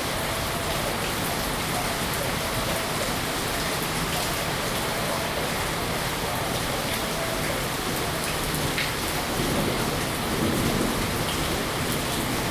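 Steady rain falling, an even hiss with scattered faint drop ticks, swelling slightly about ten seconds in.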